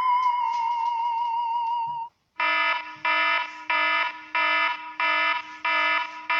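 An electronic tone wavering slightly around one pitch stops about two seconds in. After a short gap, an electronic alarm sounds in repeated buzzy beeps, about three every two seconds.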